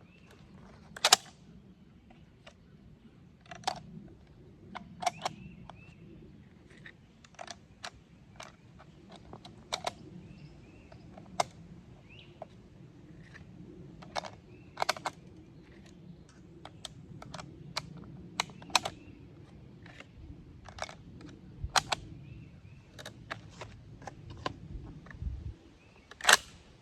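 Irregular metallic clicks and clacks from loading 7.5×55 Swiss cartridges and working a K31 straight-pull rifle, with two sharper, louder snaps, one about a second in and one near the end.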